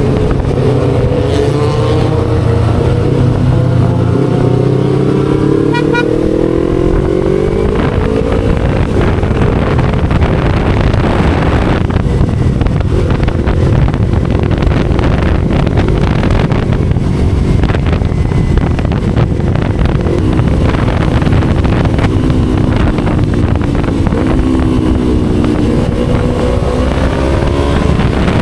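Motorcycle engine and exhaust heard on board while riding, the pitch climbing as it accelerates over the first several seconds. A stretch of wind and road noise at speed follows, then the engine note falls as it slows about two-thirds of the way through and climbs again near the end.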